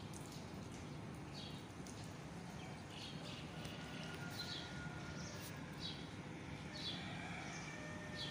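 Steady rain noise with a small bird chirping repeatedly, a short high chirp about every second.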